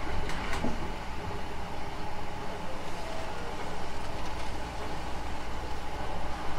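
Hankyu 9000 series electric train running at speed between stations: a steady rumble of wheels on rail, with a few sharp clicks about half a second in.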